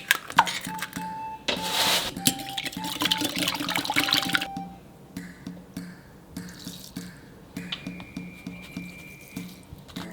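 Kitchen tap running into a sink for about three seconds, a rushing splash that then stops, followed by a few light clicks and knocks, with light background music throughout.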